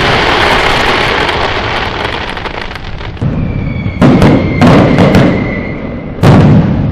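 Fireworks going off: a loud burst fading away over a few seconds, then sharp bangs about four seconds in, again half a second later, and once more near the end, each trailing off. A thin steady tone sounds in the middle.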